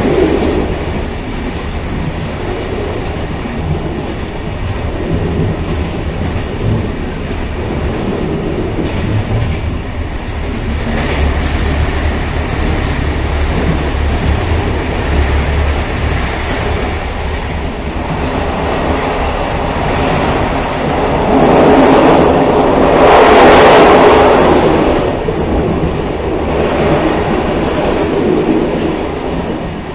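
Railcar running on rails: a continuous rolling rumble with wheel-on-rail clatter, swelling louder for a few seconds around two-thirds of the way through.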